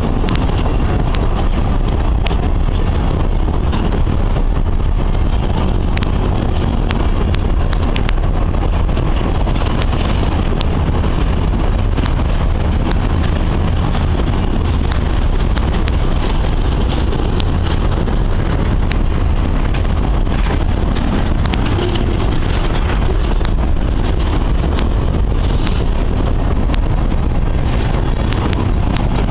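Freight train of empty grain wagons rolling by, a loud steady rumble with scattered clicks and knocks from wheels and wagons.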